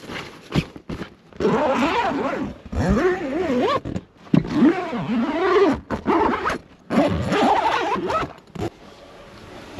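Creaking and squealing from the canopy camper being set up, in three long passes whose pitch wavers up and down, with a few clicks between them.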